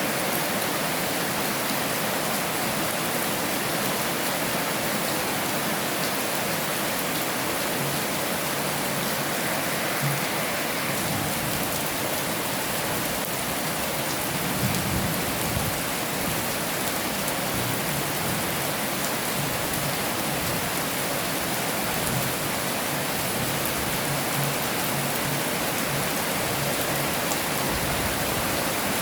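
Heavy rain falling steadily, a dense even hiss of drops, with a few brief low thuds about ten and fifteen seconds in.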